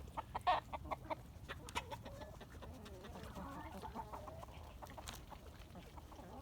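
Chickens clucking, with a quick run of sharp taps in the first second or so.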